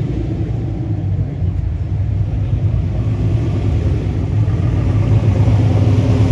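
Car engine rumbling low and steady as a car rolls in at low speed, growing louder near the end as it comes closer.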